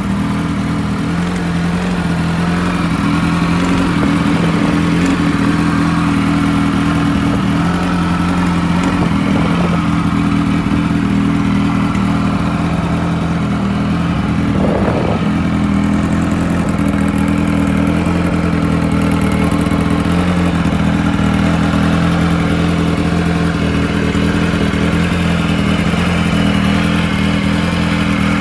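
Kawasaki KZ1100R's air-cooled inline-four engine, bored out to 1135cc and fed by Yoshimura TMR carburettors, running at a steady idle.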